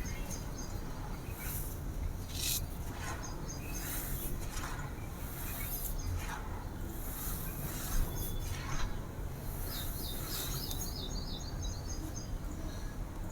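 Dry, crispy blue-dyed sand being crumbled, a scattered run of gritty crunches and crackles, with birds chirping in the background, twice in quick trilling runs.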